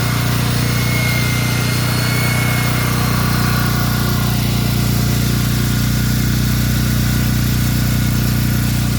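An engine running steadily at a constant speed: an even low hum with a faint high whine above it, which fades about four seconds in.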